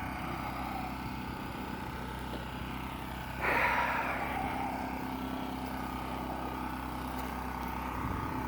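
An engine runs steadily in the background. About three and a half seconds in, a short rushing noise starts sharply and fades away over about a second.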